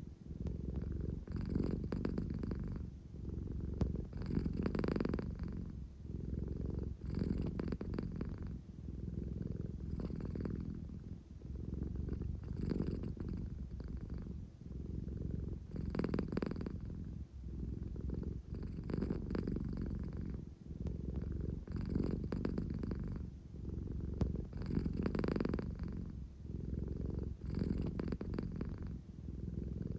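An American Shorthair cat purring close up, a low steady rumble that swells and eases with each breath, about once every three seconds.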